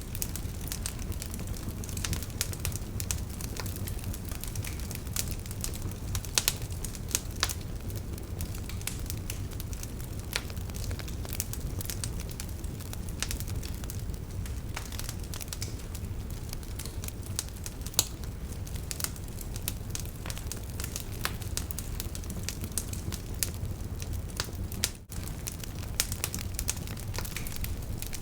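Campfire burning: a steady low rumble of flames with frequent sharp crackles and pops, and a brief dropout near the end.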